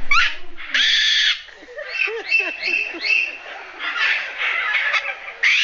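Parrot squawking: a harsh screech about a second in, a run of short rising and falling squawks and chatter, and another screech near the end.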